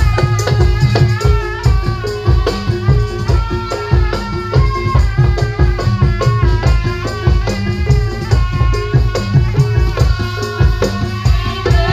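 Javanese barongan folk music played live: drums beating a fast, steady rhythm under a stepping melodic line, with rattling percussion on top.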